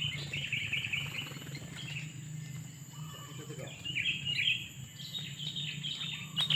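Sooty-headed bulbul (kutilang) calling in short, quick chirpy phrases: near the start, about four seconds in and again near the end, over a steady low hum.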